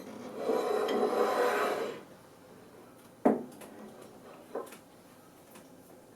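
A rubbing, rustling sound lasting about a second and a half, then a single sharp knock about three seconds in and a softer knock a second later: handling noise.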